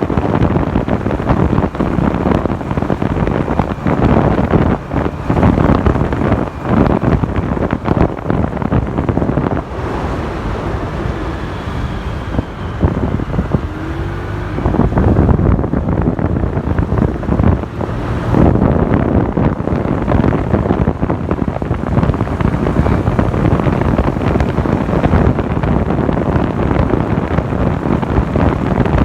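Wind buffeting the microphone of a moving motorcycle, with the engine and road noise beneath; it drops back for a few seconds about midway.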